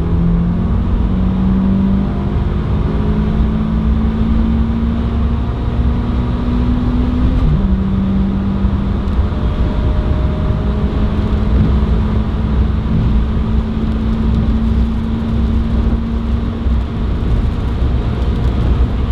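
Mitsubishi Colt CZT's 1.5-litre turbocharged four-cylinder engine at full throttle, heard from inside the cabin, over a steady low road rumble. Its note climbs, drops suddenly once about seven and a half seconds in at an upshift, then climbs slowly again.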